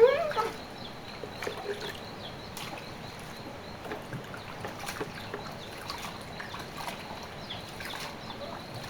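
Water trickling and sloshing in a stream, with scattered small clicks and splashes.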